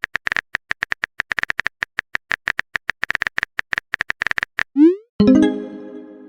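Rapid, irregular clicks of a phone-keyboard typing sound effect for about five seconds. Near the end comes a short rising swoosh, then a ringing chime that fades out, as a message is sent in a texting-app sound scheme.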